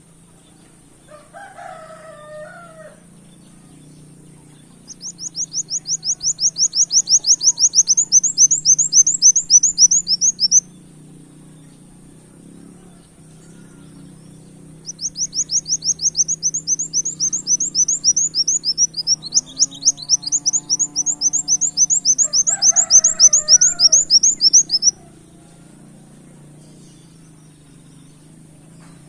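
Kolibri wulung sunbird singing two long, rapid trills of sharp, high repeated notes, the canary-like 'tembak' trill; the second trill runs about twice as long as the first. A steady high hiss runs underneath, and brief lower calls sound faintly in the background.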